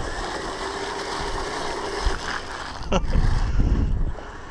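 Kyosho Blizzard RC snow vehicle's twin brushed 380-size electric motors whining steadily as it drives on snow, the whine dropping away about two seconds in. A sharp click comes about three seconds in, followed by low wind rumble on the microphone.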